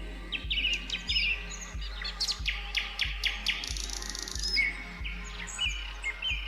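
Songbirds calling, a busy mix of quick chirps and short whistled notes, over soft background music with a steady low pulse about one and a half times a second.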